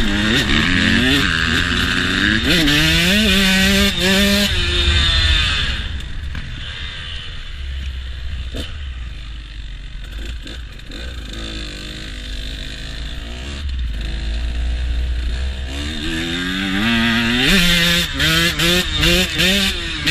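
Single-cylinder KTM motocross bike engine on a trail ride, revving up and dropping repeatedly as the rider works the throttle and shifts. Partway through it eases to a lower, quieter running, then picks up again with quick rev climbs near the end.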